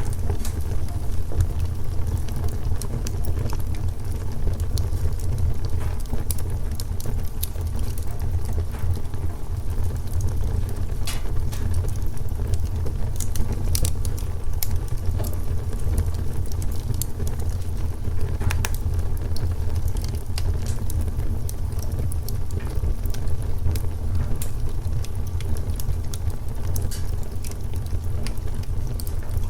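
Wood fire crackling: scattered sharp pops and snaps from the burning logs over a steady low rumble.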